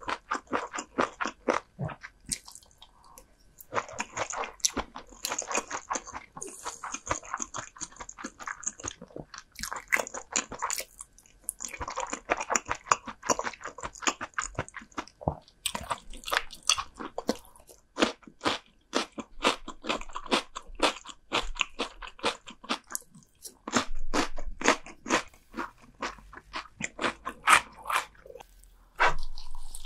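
Close-miked chewing and crunching of crisp food: many sharp crunches in quick succession, broken by a few short pauses.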